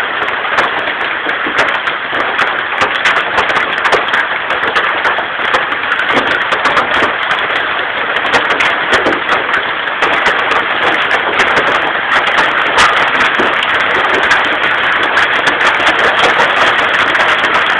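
Heavy hail coming down: a dense, steady hiss of falling ice with many sharp, separate clicks of hailstones striking hard surfaces.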